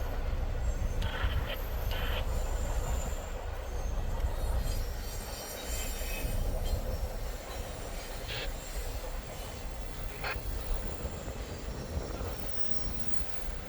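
Intermodal freight train rolling past, a steady rumble of wheels on the rails with a few brief wheel squeals, the first a little after a second in and more near the end.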